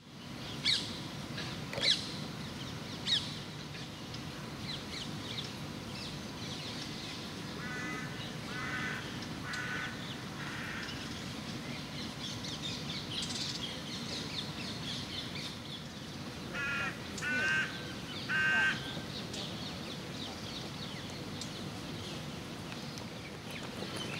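Birds calling over a steady low background rumble: three sharp high calls in the first few seconds, then short repeated calls in two bouts, four about eight seconds in and three louder ones about seventeen seconds in.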